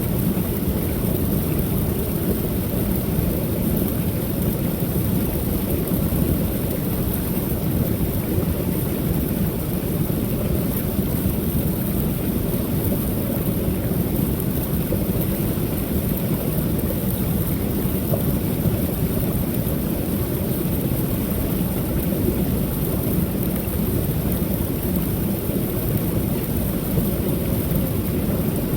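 Creek waterfall: water pouring over the falls in a steady, deep rush with a fainter hiss above it.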